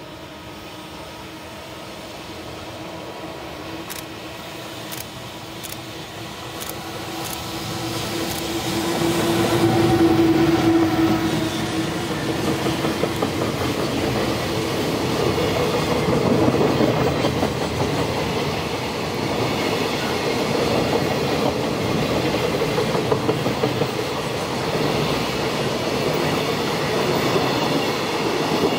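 JR Freight EF210 electric locomotive hauling a long container freight train past at speed. The rumble grows as the train approaches and swells to its loudest about ten seconds in as the locomotive passes. After that comes a continuous rumble and clickety-clack of the container wagons rolling over the rails, some of them running empty.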